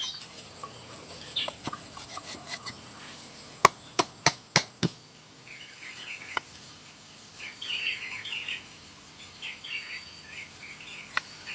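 Birds chirping, with a quick run of five sharp knocks, about three a second, around four seconds in.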